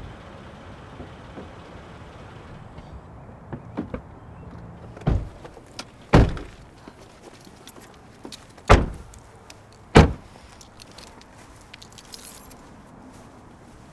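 An SUV's doors being shut: four heavy thumps, the first two about a second apart and the last two about a second apart, a few seconds after the first pair, over a steady faint hiss.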